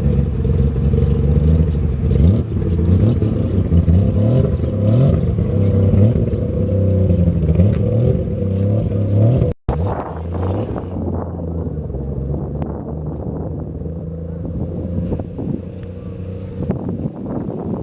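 Car engines idling with some revving, their pitch wandering up and down. After a sudden break about ten seconds in, a steadier, quieter engine idle.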